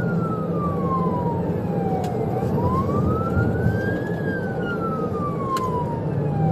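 Police siren on a slow wail, its pitch sweeping up and down about once every four and a half seconds, over steady road and engine noise of a car under way.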